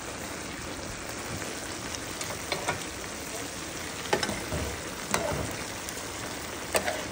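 Pork-and-liver igado with vegetables sizzling in a wide metal pan as a steady hiss. A metal spoon stirring it clinks sharply against the pan several times.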